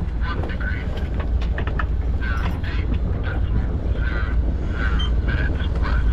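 Wind buffeting the microphone aboard a small sailing yacht, a steady low rumble, with short higher-pitched calls breaking in every second or so.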